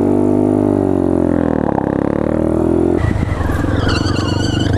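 Motorcycle engine at high revs; the pitch sags and climbs again, then about three seconds in drops to a lower, choppier throb as the throttle comes off.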